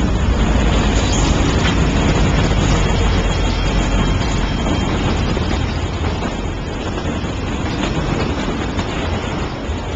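CSX diesel locomotives of a freight train passing close at speed, followed by auto rack cars rolling by, making a loud, steady rumble of engines and wheels on the rails.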